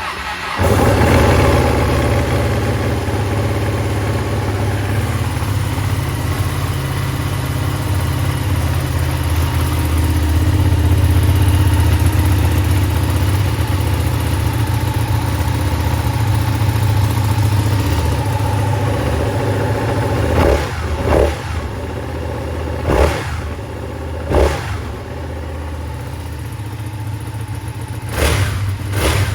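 Ducati Panigale 959's 955 cc V-twin starting up and settling into a steady cold idle. Near the end there are several short throttle blips. The engine is cold, so it is revved only lightly.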